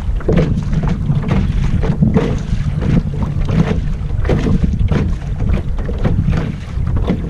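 Wind rumbling and buffeting on the microphone in uneven gusts aboard a small sailboat under way, with the wash of water around the hull.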